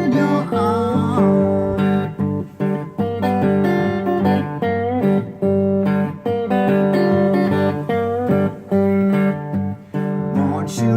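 Guitar picking a repeating Mississippi Hill Country blues riff in an instrumental passage, without singing.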